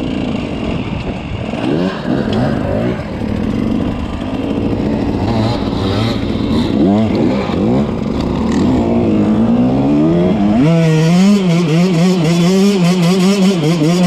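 Enduro dirt bike engine revving, its pitch rising and falling repeatedly with the throttle. About two-thirds of the way in it jumps to a louder, higher pitch that it holds fairly steadily.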